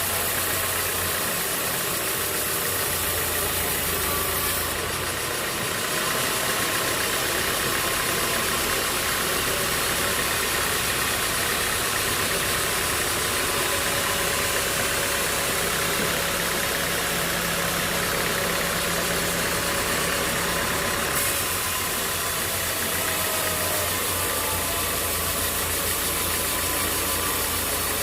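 Sawmill machinery running steadily, an engine with a dense, even noise over it. The noise changes slightly about five seconds in and again about twenty-one seconds in.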